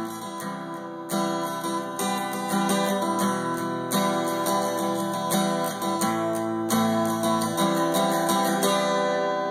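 Acoustic guitar strumming chords in steady rhythm: background music.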